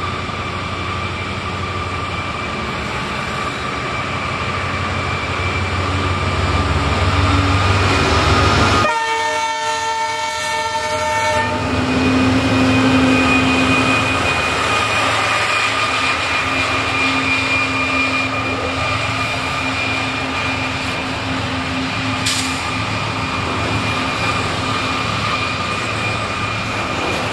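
Two EL class diesel locomotives hauling a coal train past at close range, their engines running under load, with a horn blast of about two and a half seconds around nine seconds in. The rest is the steady rumble and wheel noise of coal hopper wagons rolling by.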